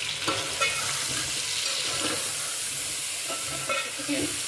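Potato cubes and ginger-garlic paste sizzling in hot oil in a metal pot, with a metal slotted spoon scraping and clinking against the pot as they are stirred.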